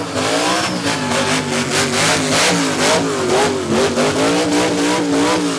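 A vehicle engine revving hard and held at high revs, its pitch wavering up and down with a rapid pulsing, as during a burnout.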